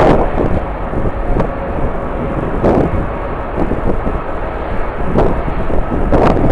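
Jet aircraft engines running, heard under strong wind buffeting the microphone in irregular gusts.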